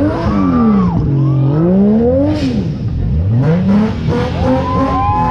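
Sports car engine revved hard and repeatedly, the pitch climbing and falling twice, then rising again and holding steadier near the end.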